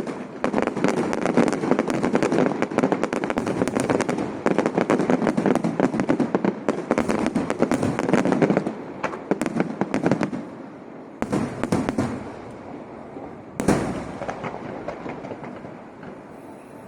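Aerial fireworks exploding overhead: a dense, rapid crackle for about the first eight seconds, then sparser crackling with two separate sharp bangs, the louder one about two thirds of the way through.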